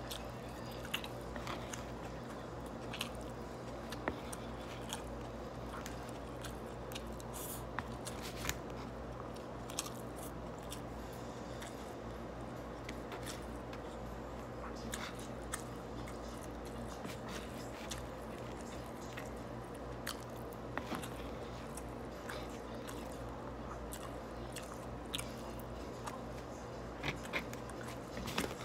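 Close-up eating sounds: a person chewing and biting mouthfuls of a beef, chicken and rice bowl, with scattered short clicks from a plastic fork against a foam bowl, over a steady low hum.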